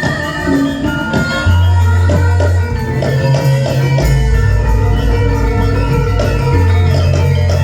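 Javanese gamelan ensemble playing wayang kulit accompaniment: struck pitched notes and drum strikes over long sustained low bass notes.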